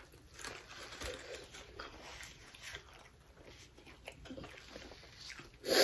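Quiet eating sounds: people biting and chewing fried chicken wings, with scattered small clicks and smacks, and a short louder crunch or rustle near the end.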